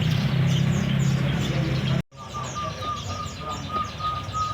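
Many caged songbirds chirping rapidly, over a low steady hum in the first half. After a sudden cut about two seconds in, a run of short, even whistled notes at one pitch joins the chirping.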